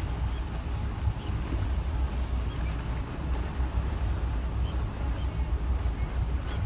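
Boat engine running with a steady low rumble, mixed with wind and water noise.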